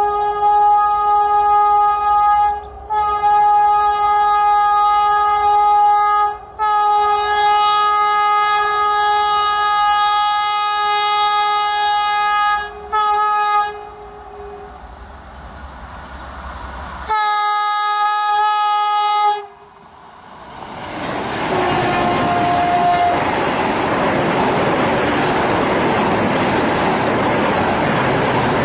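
Vande Bharat Express train horn sounding in long blasts with short breaks over the first fourteen seconds, then once more briefly. After that the train passes close by with a loud, rising rush of wheel and rail noise that holds to the end.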